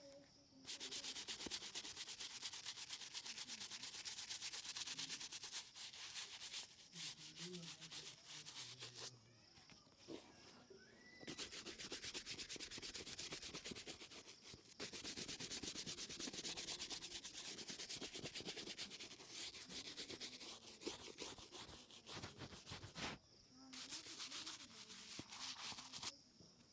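A leather shoe being buffed during a shoe shine, with rapid rubbing strokes in several long bouts and short pauses between them.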